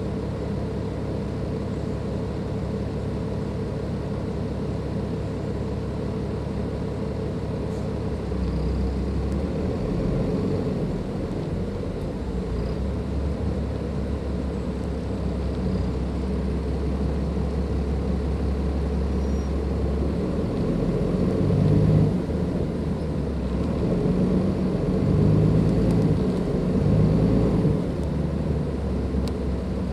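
Cummins ISLe diesel engine of a Dennis Enviro 500 double-decker bus heard on board: a steady low hum for the first several seconds, then louder as the engine takes load about eight seconds in, with several surges of engine noise in the second half.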